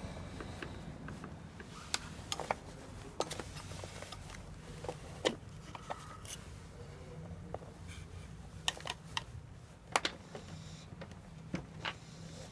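Scattered sharp clicks and light knocks of parts being handled during the disassembly of a wet-and-dry vacuum cleaner, over a steady low hum.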